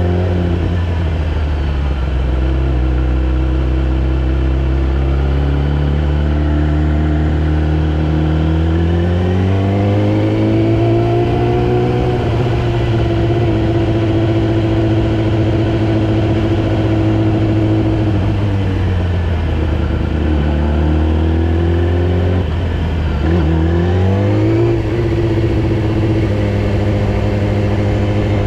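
Yamaha R6's inline-four engine running under way, a steady note at first, then rising in pitch as the bike speeds up about a third of the way in, dropping as it slows around two-thirds of the way, and rising again soon after.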